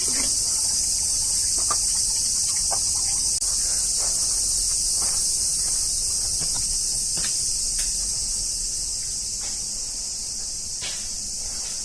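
Steady, high-pitched chorus of cicadas, a dense shrill drone that eases slightly about nine seconds in.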